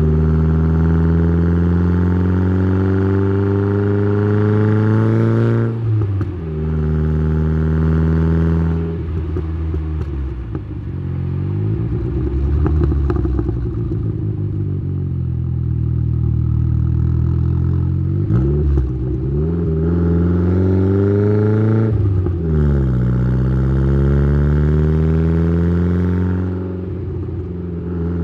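Exhaust of a tuned Saab 9-3's turbocharged B204 2.0-litre four-cylinder, heard through an exhaust-mounted microphone under hard acceleration. The engine note climbs steadily for about six seconds before a gear change cuts it short. Later, further climbs are broken by sudden drops in pitch as it shifts through the gears.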